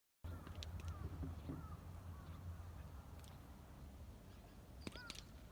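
Faint outdoor ambience with a low rumble. Distant birds give short repeated calls, and a few sharp clicks come near the end.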